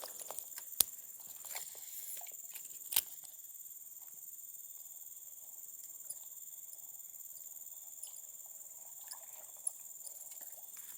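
Steady, high-pitched drone of insects such as crickets, with two sharp clicks within the first three seconds.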